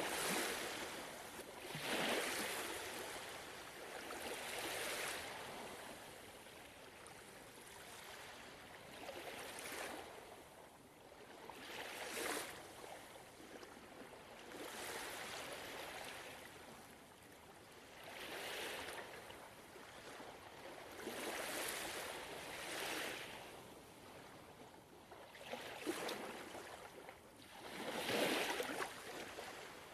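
Gentle ocean waves lapping at the shore, each small wave a soft wash of water rising and falling, coming every two to three seconds; the strongest wash comes near the end.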